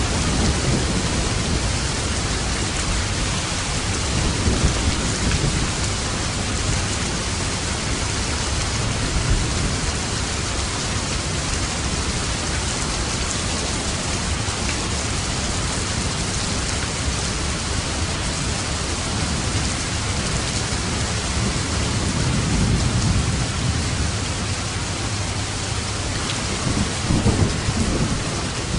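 Steady heavy rain with thunder rumbling low several times, most strongly near the end.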